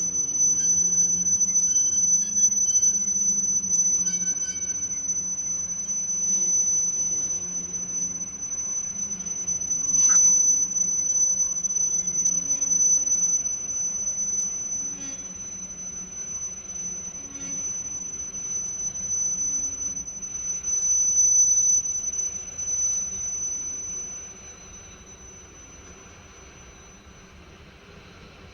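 A long freight train's cars rolling past with a steady high-pitched wheel squeal over a low rumble and occasional clicks. The noise drops off about 24 seconds in and the squeal stops shortly after.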